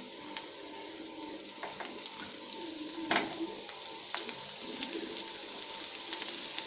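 Roti cutlets shallow-frying in hot oil in a nonstick pan: a steady sizzle with scattered small crackles as more cutlets are laid into the oil. A sharper, louder crackle comes about three seconds in.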